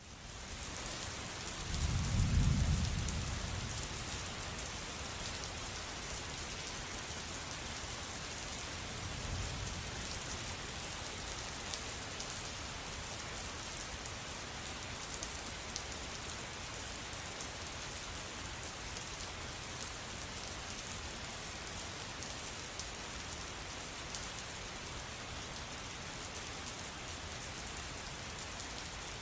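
Steady rain that fades in at the start, with a low rumble of thunder about two seconds in and a fainter one around ten seconds.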